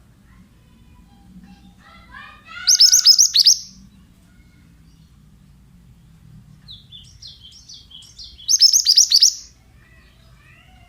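Mantenan bird singing: soft whistled notes run into a loud burst of rapid, sharp, high chattering notes, about three seconds in. The same phrase comes again near the end.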